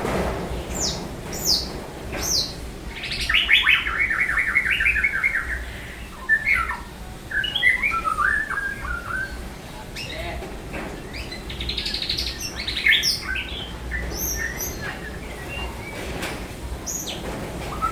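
A songbird singing loudly in varied chirps and short phrases, with a fast, falling trill about three seconds in and bright, high-pitched phrases again around twelve seconds. A steady low wind rumble runs underneath.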